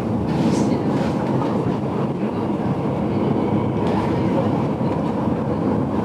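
Steady rumble and rattle of the GoldenPass Belle Époque train running along the track, heard from inside its vintage passenger carriage.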